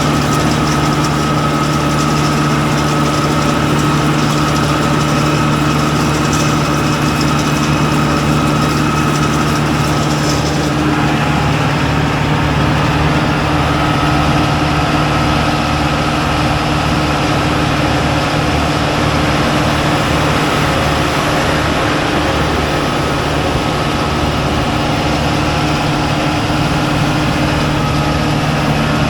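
Tractor engine running steadily, with a thin steady whine over it. The higher hiss eases off about a third of the way in.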